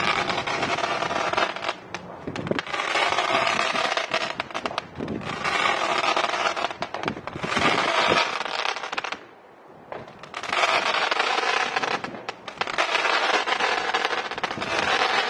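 Fireworks going off in spells of dense, rapid crackling, each about two seconds long with brief pauses between them, and a short lull a little past halfway.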